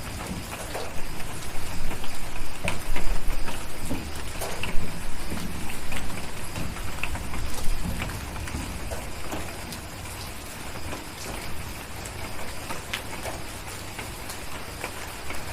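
Steady rain falling, with scattered sharp crackles and pops from a wood fire. A low rumble of distant thunder swells in the first half and then fades.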